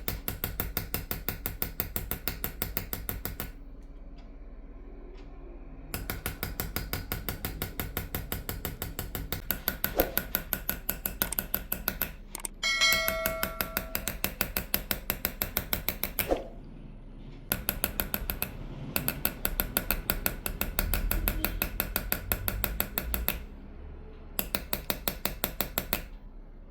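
Small engraving hammer tapping a chisel into a silver dish in rapid, even runs of several taps a second, stopping and starting every few seconds. About 13 seconds in, one metallic ringing note sounds briefly.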